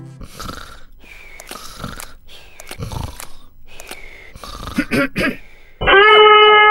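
A cartoon character sniffing in several short puffs, then a loud, long-held 'aaah' as a sneeze builds up.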